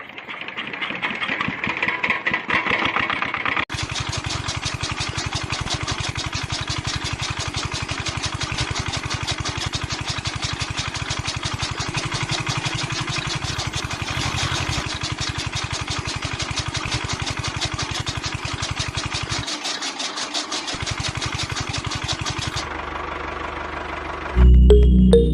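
A small engine starting up and then running with a fast, steady chugging beat, which stops a couple of seconds before the end; music comes in near the end.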